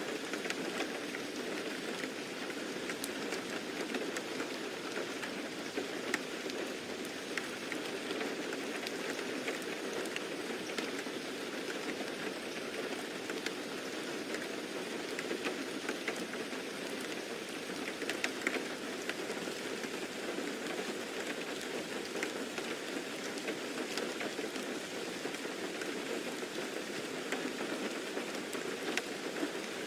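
Steady rain falling on a surface, an even hiss with scattered drop patters.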